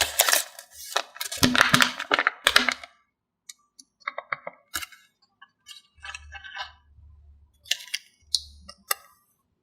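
Handling noise of small hard objects: a dense run of knocks and rattles for about the first three seconds, then scattered light clicks and brief rustles.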